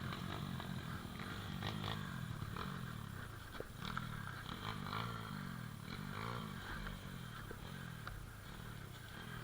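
Small pit bike engine running at low revs, its pitch rising and falling several times, with scattered light knocks and rattles.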